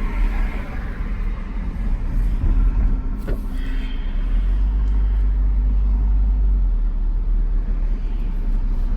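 2010 Ford Ranger pickup heard from inside the cab while driving: steady low engine and road rumble, growing a little louder and smoother about halfway through.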